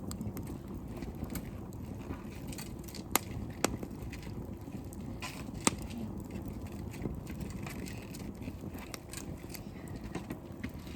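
Wood fire burning in a fire pit, crackling steadily, with three sharp pops of the burning wood standing out about three, three and a half and five and a half seconds in.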